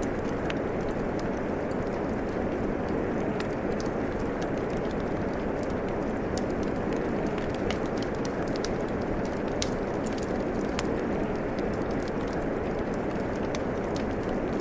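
Steady rain with a crackling wood fire, small sharp pops and snaps scattered irregularly over the even hiss of the rain.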